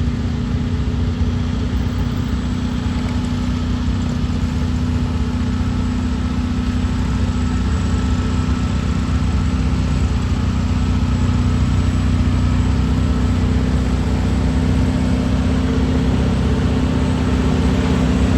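Heavy diesel engine running steadily with a deep hum, growing slightly louder over the second half.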